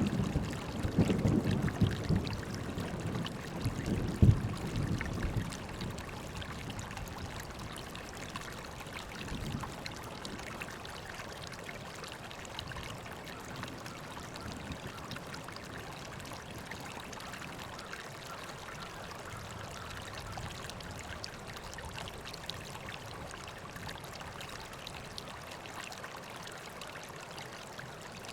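River water flowing and trickling in a steady hiss. Low rumbling swells fade out over the first five seconds.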